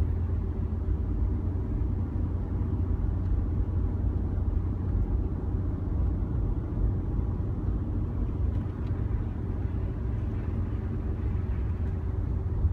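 A vehicle being driven: the engine and road noise make a steady low rumble.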